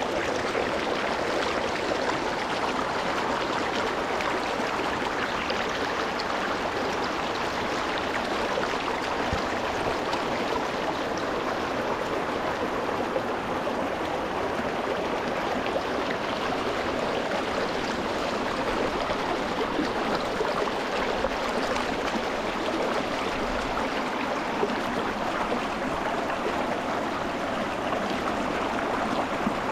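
Shallow rocky mountain stream flowing and splashing over stones, a steady rushing sound heard close to the water.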